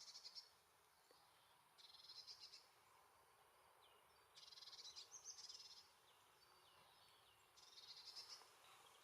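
Faint high songbird calls: four short bursts of rapid trilling, about a second in, about two seconds in, a longer one around the middle, and one near the end. A few brief falling notes sound between them.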